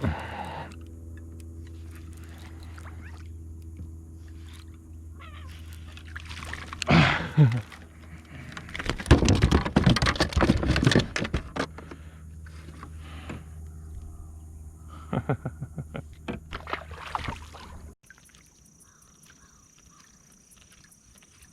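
Water splashing and knocking around a kayak over a steady low hum, with the loudest splashing a few seconds in; the sound drops off abruptly near the end.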